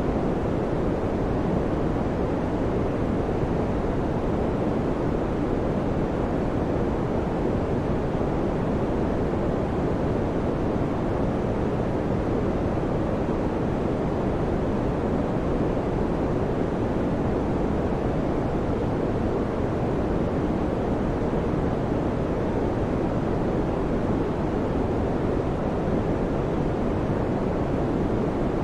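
Electric fan running: a steady, even rushing noise, heaviest in the low and middle range, with no hum, ticks or change in speed.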